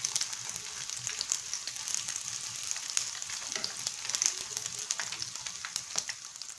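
Nems (spring rolls) deep-frying in hot oil on their second frying: a steady sizzle with many scattered crackles.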